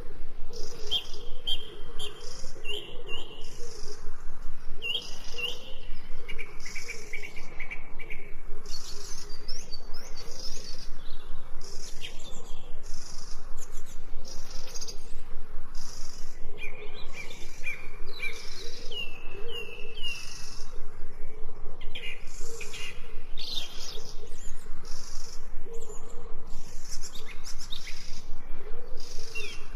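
Mixed birdsong: several birds chirping and calling together, with short notes repeated in quick series, some of them falling in pitch.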